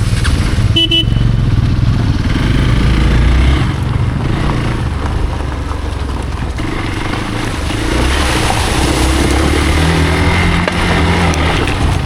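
Hero Xpulse off-road motorcycle's single-cylinder engine running while riding; the engine note eases off around four seconds in and builds again from about eight seconds.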